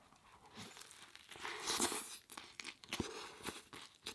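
Crinkling, tearing-like rustle that swells about a second and a half in, then a few short sharp crunches or clicks, the sounds of handling food and its packaging during a meal.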